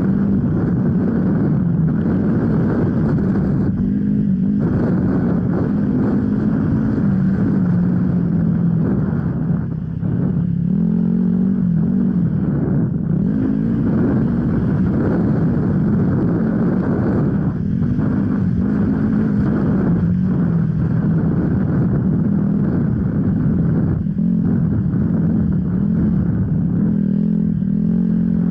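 Off-road enduro motorcycle engine running under load, its pitch rising and falling again and again as the throttle opens and closes.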